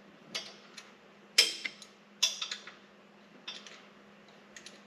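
Scattered light clicks and clacks of parts and tools being handled during engine assembly, about eight separate knocks at uneven spacing, over a faint steady hum.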